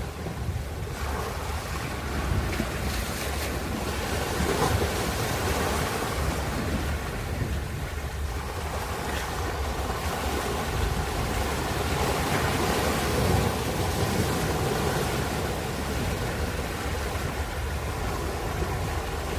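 Ocean surf: waves breaking and washing ashore, the rush swelling and easing every few seconds over a steady low rumble.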